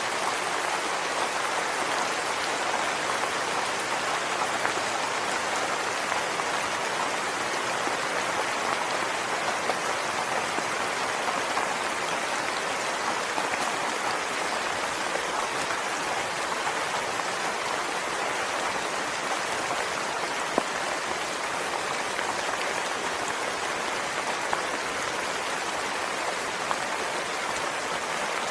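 Steady rain falling, an even hiss of drops, with a few sharper single drop ticks in the later part.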